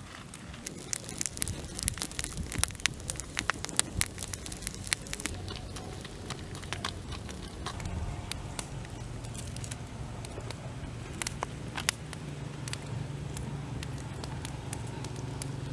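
Wood fire crackling, with sharp pops coming thick for the first few seconds and more sparsely after.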